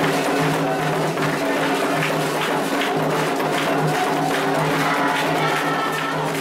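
Candomblé ritual music for Xangô: atabaque hand drums and percussion beating a steady rhythm, with voices singing over them.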